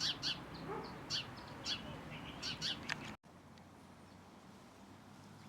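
Birds chirping with quick, repeated short calls, some sliding down in pitch. The sound cuts off abruptly about three seconds in, leaving only a faint steady background.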